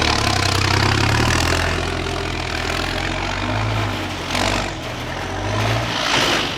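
6x6 MAN trial truck's diesel engine running steadily at low revs, its note dropping away near the end, with two short bursts of hiss partway through.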